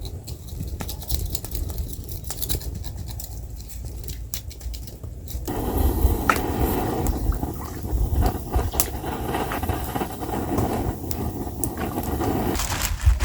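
Wood fire crackling with sharp pops over a low rumble. About five and a half seconds in, the sound turns abruptly into a fuller, even rushing noise.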